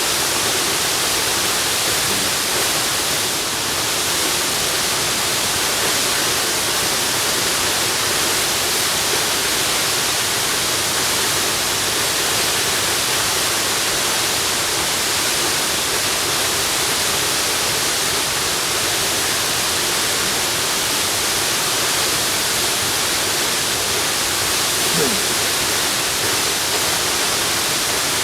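Waterfall: a steady, unbroken rush of falling water, a dense hiss with most of its weight in the higher range.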